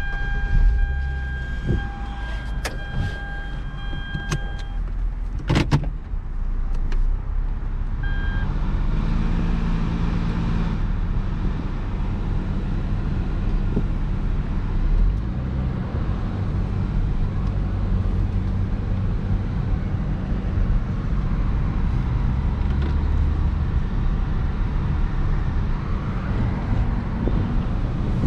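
Hyundai Genesis Coupe 3.8's V6 engine running as the car sets off and drives, heard from inside the cabin. In the first few seconds a steady electronic warning chime sounds with a few sharp clicks, and about eight seconds in the engine and road noise pick up and then hold steady.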